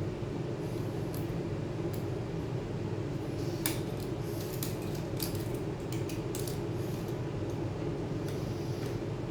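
Several small, sharp metallic clicks and taps, bunched in the middle few seconds, over a steady low hum: small metal tools or parts being handled.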